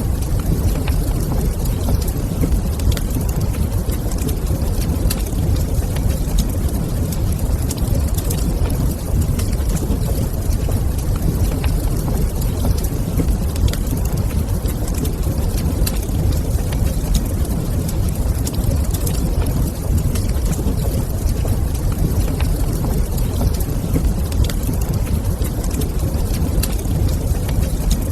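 Fireplace fire crackling, with scattered small pops over a steady low rumble.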